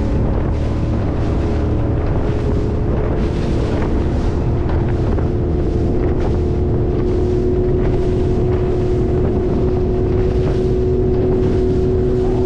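Speedboat engine running steadily under way, with wind buffeting the microphone.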